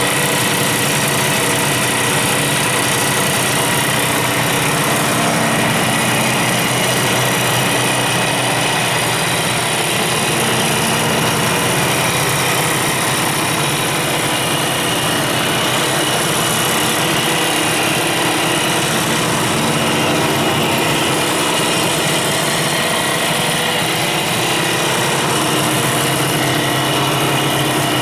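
Kawasaki 350SS (S2) two-stroke three-cylinder engine idling steadily.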